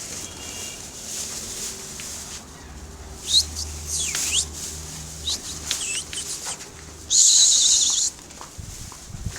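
Domestic pigeons taking off and flying, their wings flapping, with short high chirps in between and a loud burst of flapping about seven seconds in that lasts a second.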